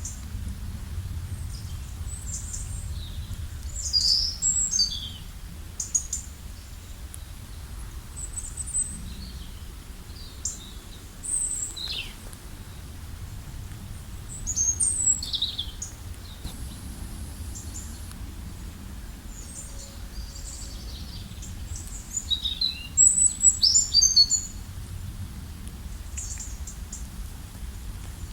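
Wild songbirds chirping and trilling in short clusters of high notes, loudest about four, fifteen and twenty-three seconds in, over a low steady background rumble.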